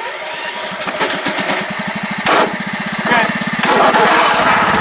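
Modified riding lawn mower's small engine running with a steady pulse, growing louder about three and a half seconds in.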